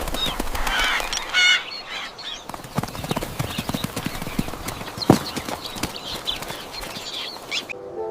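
Busy animated sound effects of chirping bird calls over many quick clicks and taps, with one louder call about a second in and a sharp knock about five seconds in; it all cuts off just before the end.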